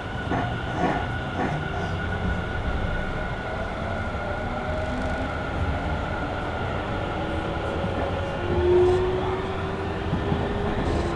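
Tobu Railway electric train heard from inside the car while running. There are a few clacks over rail joints near the start, then the traction motors' whine rises slowly in pitch as the train picks up speed.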